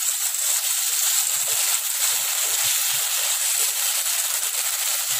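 Chicken pieces sizzling steadily in hot mustard oil in a wok-like kadai while being stirred with a wooden spatula, as the meat is briefly half-fried.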